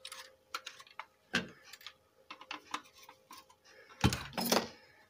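Small sharp clicks and taps of hand-work on a car stereo's metal chassis while a screw is sought and fitted, with a louder clatter of knocks about four seconds in.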